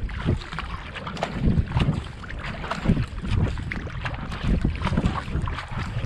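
Kayak paddle blades catching and pulling through the water in a steady rhythm of splashes, with wind buffeting the microphone.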